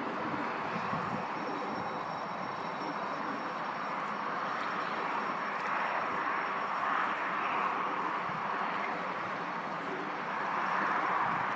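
Jet airliner engines, a steady rushing noise with a faint high whine for the first half, swelling slightly near the end.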